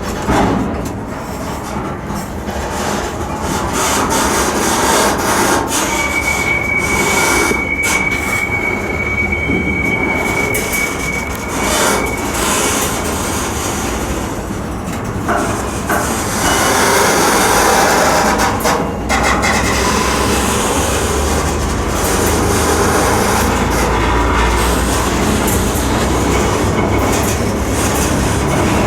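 Freight train cars rolling close by on the rails with a continuous rumble and clatter. A steady high metallic squeal runs for about six seconds, and the low rumble grows heavier in the second half.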